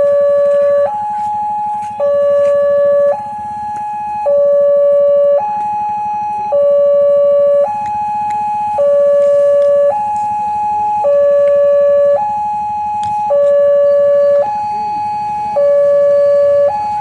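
Railway level-crossing warning alarm sounding, a steady two-tone signal alternating between a lower and a higher tone about every second, warning that a train is approaching. A low rumble runs underneath.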